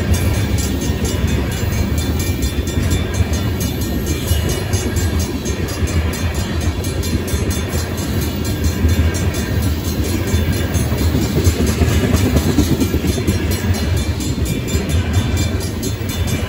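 Freight train of tank cars passing close by: steady low rumble and rattle of steel wheels on the rails. A railroad crossing's Safetran hybrid bell rings steadily over it.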